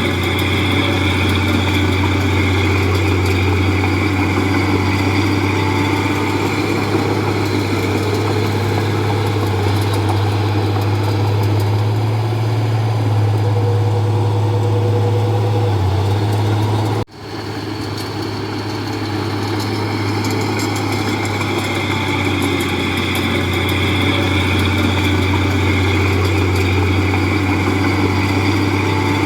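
Heavy-equipment diesel engine running steadily, with a low, even hum. The sound cuts out for an instant about seventeen seconds in, then comes back.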